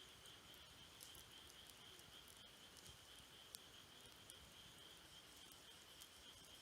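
Faint campfire crackle, a few sharp pops of burning wood, over the steady high trill of insects.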